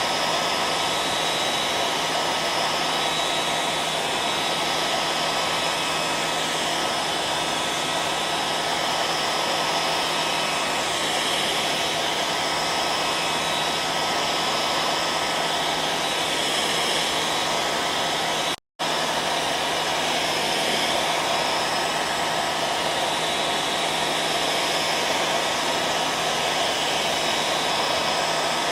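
Hair dryer running steadily: a constant rush of blown air with a faint, steady whine and hum under it. It cuts out to silence for a split second about two-thirds of the way through, then carries on unchanged.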